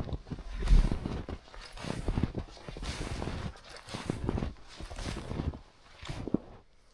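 Snowshoes crunching and packing down fresh snow at a steady walking pace, about one step a second, dying away near the end.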